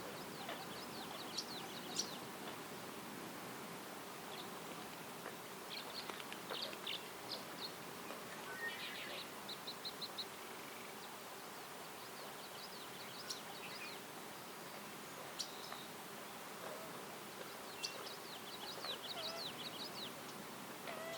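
Wild songbirds singing, several short phrases of quick high chirps and trills spaced a few seconds apart, over a steady faint natural hiss.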